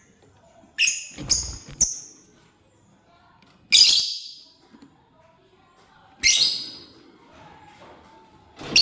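Lovebird giving sharp, shrill chirps: three in quick succession about a second in, then single calls roughly every two and a half seconds.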